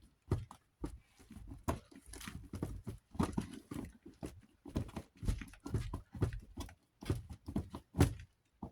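Hand tool working at a small metal hex-head bolt on a desk fan's oscillation mechanism: a run of irregular metal clicks and knocks, two or three a second. The bolt head is stripped out.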